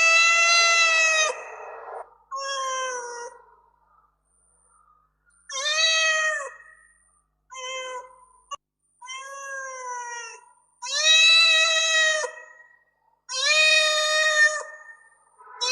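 A domestic cat meowing over and over: about seven separate meows, the longer ones loud and drawn out, a few short and faint, with brief silences between them.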